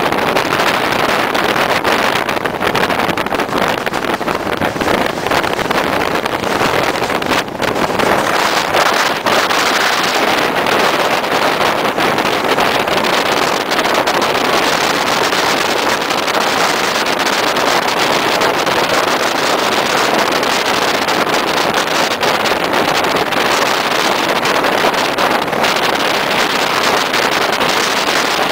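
Steady rush of a passenger train running at speed, heard from an open carriage window with wind buffeting the microphone.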